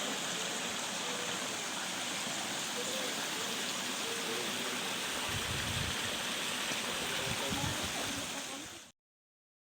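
Steady rushing of running water, with faint voices underneath and some low thumps from about five seconds in; the sound cuts off abruptly near the end.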